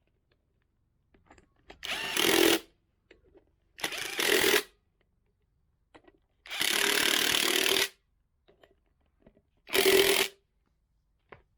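A handheld power tool run in four short bursts of about a second each, with faint clicks of handling in between.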